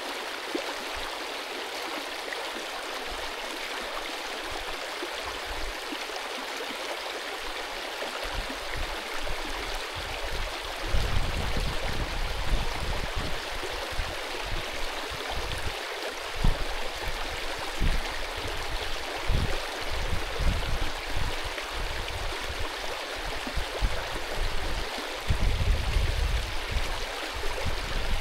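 Mountain stream rushing steadily. From about a third of the way in, irregular low rumbling comes and goes under it, loudest in two stretches.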